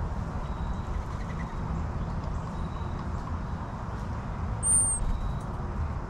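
Steady low outdoor rumble with one short, very high bird chirp about three-quarters of the way through.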